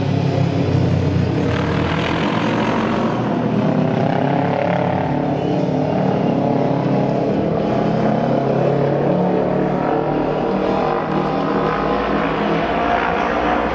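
Several auto race motorcycles' open-exhaust 600 cc twin-cylinder engines running together, their pitch rising and falling as they are revved and ridden around the oval.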